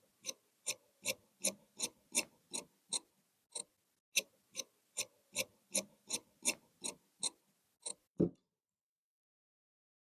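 Tailor's shears cutting cloth: two runs of crisp, evenly spaced snips at about three a second with a short break between them, then two last snips, the final one with a dull knock.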